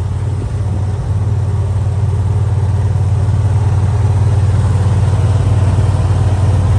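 A small engine running steadily with a low hum, growing a little louder over the last few seconds.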